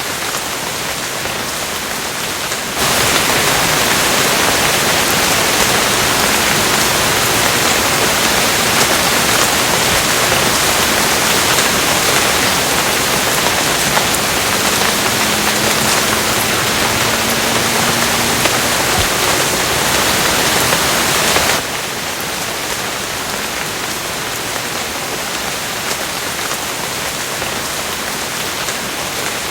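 Steady rain falling, an even hiss. About three seconds in it abruptly becomes louder and brighter, like a heavier downpour, then drops back just as suddenly to the lighter rain near the end.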